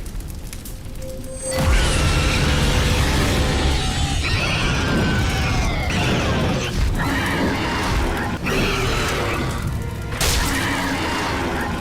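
Film soundtrack: dramatic music mixed with animal shrieks and crashing effects, jumping suddenly louder about a second and a half in.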